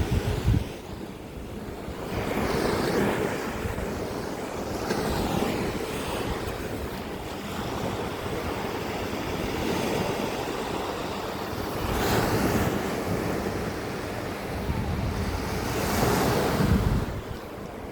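Sea waves washing onto the beach, several breakers swelling up and falling away, with wind buffeting the microphone.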